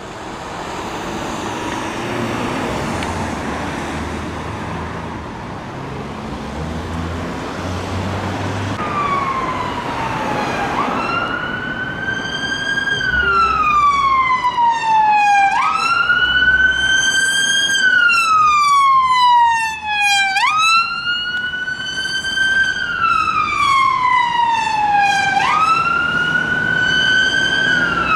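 Road traffic noise, then an emergency vehicle siren comes in about nine seconds in and grows louder. It runs a slow wail, each cycle jumping up quickly and then falling slowly over about five seconds.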